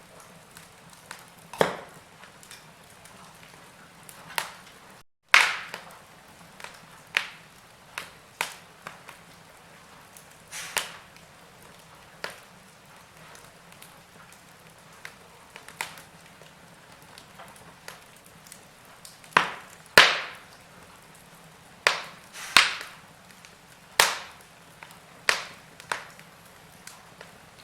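Wood fire in a fireplace crackling: irregular sharp pops and snaps, some louder than others, over a faint low hiss. The sound breaks off for a split second about five seconds in.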